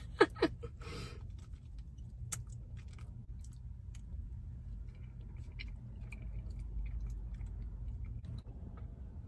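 Close-up eating sounds: chewing, with small clicks of a fork against a paper cup of mac and cheese, over a steady low hum. A brief laugh trails off in the first second.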